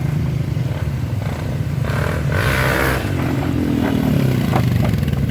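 Off-road trail motorcycle engines running steadily, with a brief rushing noise about two seconds in and an engine note falling away near the end.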